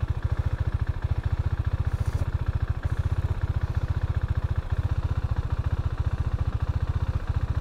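KTM Duke 390's single-cylinder four-stroke engine idling with an even, steady beat of about a dozen pulses a second.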